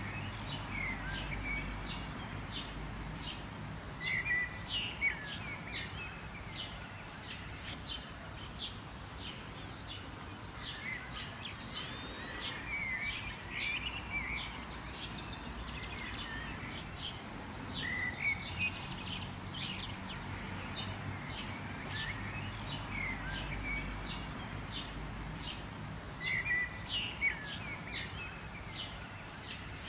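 Birds calling, with many quick high chirps throughout and a short warbling song phrase every several seconds, over a steady low background rumble.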